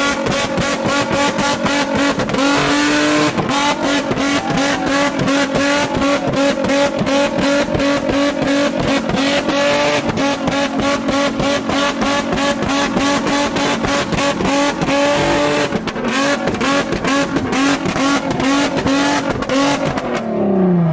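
Nissan 350Z's V6 engine held at a flame-kit rev limiter: a steady high engine note cut by rapid, evenly spaced exhaust pops and bangs, about four or five a second, as the ignition cut fires the exhaust flames. The revs drop just before the end.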